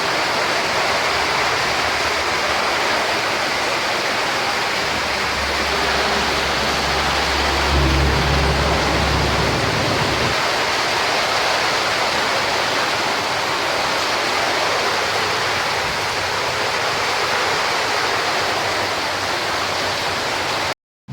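Heavy rain and wind: a dense, steady hiss of a downpour. A low rumble joins it about five seconds in and stops about ten seconds in.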